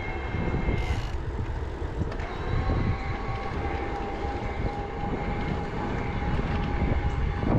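Wind rumbling on the microphone of a moving e-bike, with a steady whine from its Bosch drive motor that shifts pitch slightly a couple of times.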